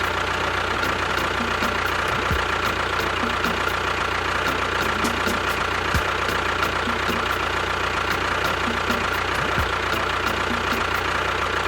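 Small motor of a DIY mini tractor running at a steady speed, with a constant thin whine over its hum.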